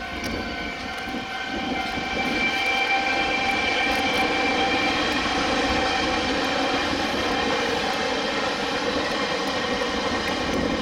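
Taiwan Railway train passing close by at a level crossing, a steady rumble with a whine of several held tones, growing louder about two seconds in and then holding.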